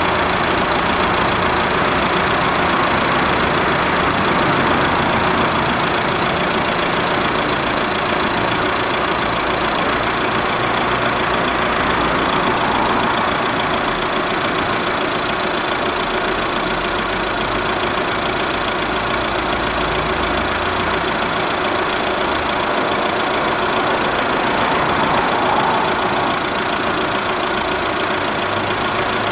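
Car engine running steadily at an even speed, with a smooth, unchanging hum and no revs.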